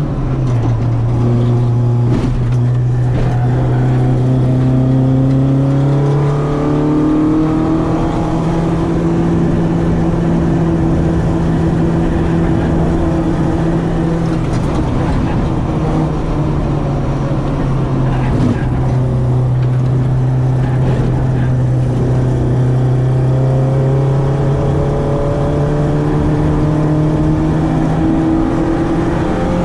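Citroen AX 8-valve four-cylinder engine on twin Weber 40 carburettors, driven on track. Its revs drop right at the start, hold steady, step up about a quarter of the way in, ease back down around the middle, and climb again near the end.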